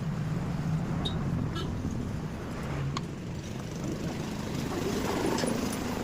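Honda Shine SP 125's single-cylinder engine running steadily, with a brief swell in the sound about five seconds in.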